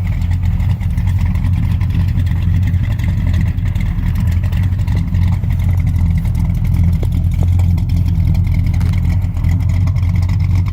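Mildly built 355 V8 of a 1978 Pontiac Trans Am WS6 idling steadily through long-tube headers and 2.5-inch dual exhaust with Dynomax Super Turbo mufflers and no H- or X-pipe: a low, even, mellow exhaust note.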